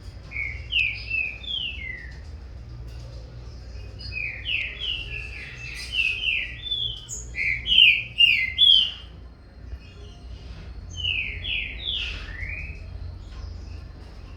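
Green-winged saltators (trinca-ferro) singing: three phrases of quick, short slurred whistled notes, the longest and loudest in the middle, as a young bird and its father counter-sing. A steady low hum runs underneath.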